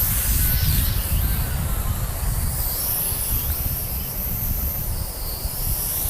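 Wind buffeting the microphone in a steady low rumble, over the thin high-pitched whine of a JJRC H33 mini quadcopter's motors rising and falling in pitch as they speed up and slow down.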